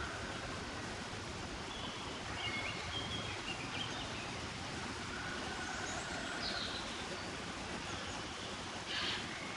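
Steady outdoor background noise with scattered short, high chirps of small birds, and one brief louder call about nine seconds in.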